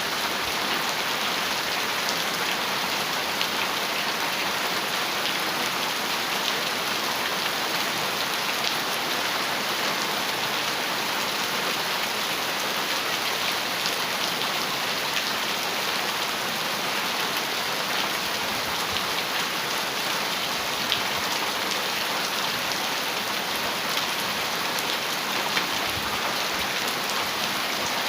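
Heavy rain falling steadily on a metal roof: a dense, even hiss of rain with many small, sharp drop ticks scattered through it.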